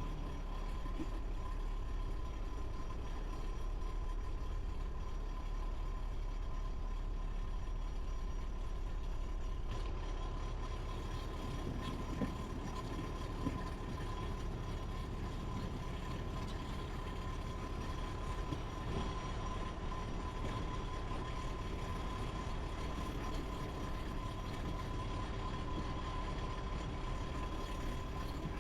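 Heavy construction machinery running steadily, a low engine rumble with a steady high whine over it.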